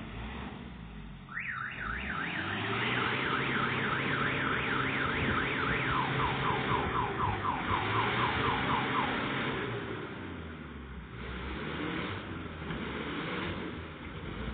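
Electronic vehicle alarm sounding over a running engine: quick rising sweeps, about four a second, switching about six seconds in to faster falling chirps, which stop near nine seconds. Underneath, the engine's pitch rises and falls as it is revved.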